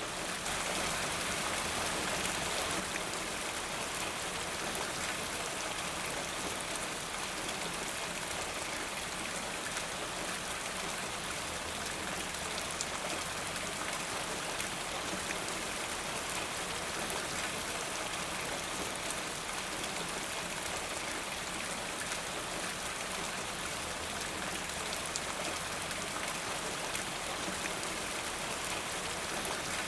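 Steady rain falling, an even hiss with fine drop patter, a little louder for the first few seconds.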